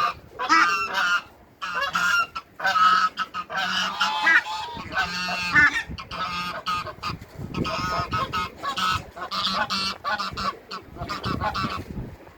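Domestic geese honking over and over, several birds calling at once in a dense, continuous clamour.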